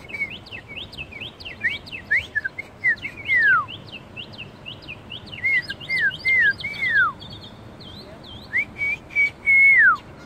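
A songbird singing a varied whistled song: quick notes that flick up and down in pitch, broken by three long whistles that slide steeply down, the last near the end.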